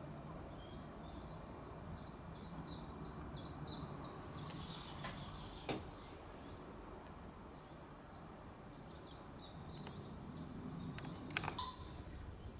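A small songbird singing twice, each phrase a quick series of about ten high, downward-slurred notes repeated at around three a second. A single sharp click falls between the two phrases.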